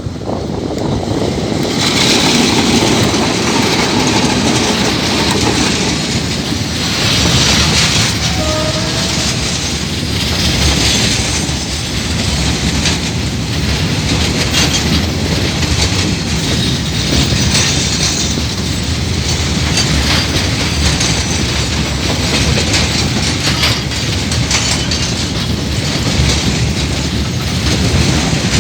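KiwiRail coal train wagons rolling past, a steady loud rumble with the clickety-clack of wheels over the rail joints, growing brighter and hissier about two seconds in.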